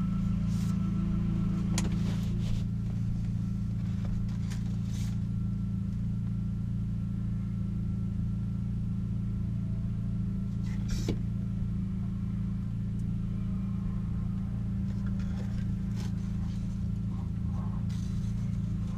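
BMW E30 rally car's engine idling steadily, heard from inside the cabin, with a couple of short clicks about two seconds in and again about eleven seconds in.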